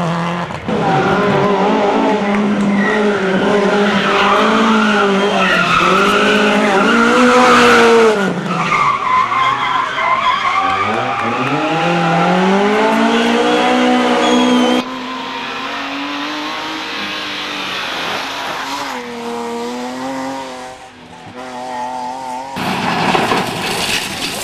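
Several World Rally cars' turbocharged four-cylinder engines revving hard in turn, the pitch dropping as they brake and climbing again as they accelerate away, with tyres skidding. Near the end a burst of noise with no clear engine note.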